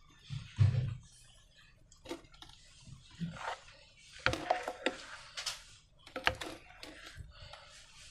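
Slime being worked by hand: irregular sticky squelches, crackles and clicks with short gaps between them, a few sharper clicks in the middle.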